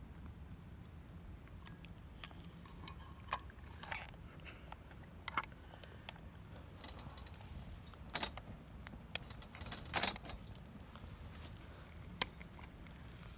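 Scattered light clicks and clinks over a low steady hum, with a few sharper ones past the middle and one near the end.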